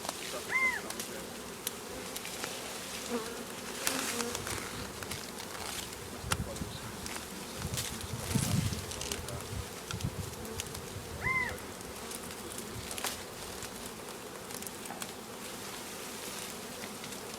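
A honeybee swarm buzzing: a steady drone of many bees in flight. Two short high chirps come through about ten seconds apart.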